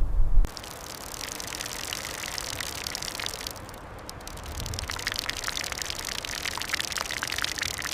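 A loud low rumble cuts off about half a second in, giving way to a steady, dense patter of many small impacts from falling storm precipitation. The patter thins briefly in the middle and then picks up again.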